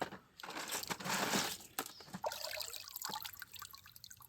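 Water splashing and trickling as hands work in shallow water: a louder rush of water about a second in, then small splashes and drips.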